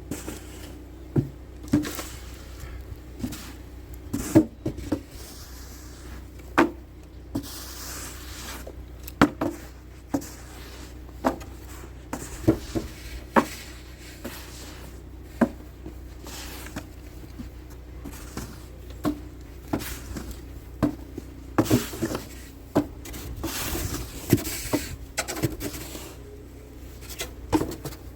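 Snow shovel pushed and scraped along a driveway, its blade knocking sharply against the pavement every second or two, with longer scraping stretches as snow is shoved aside.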